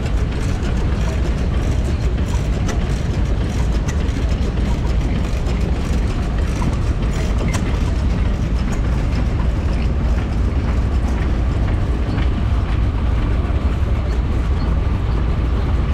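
Vintage stationary engine running steadily at a constant speed.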